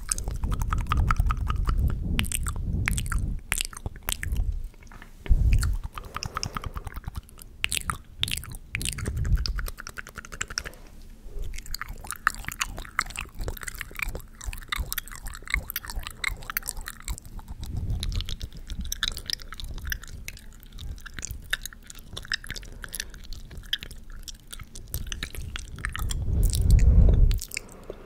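Close-miked ASMR mouth sounds: a dense run of fast wet clicks and smacks, with a few low muffled swells, the strongest near the end.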